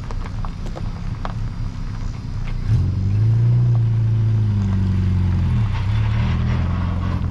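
Engine of a small open-top MG Midget idling, then pulling away about three seconds in with a rising note that drops back about two-thirds of the way through, as at a gear change, and carries on.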